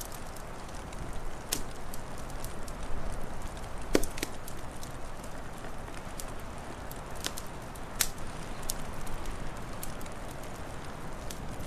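Wood fire crackling, with scattered sharp pops over a steady low rushing hiss; the loudest pops come about four and eight seconds in.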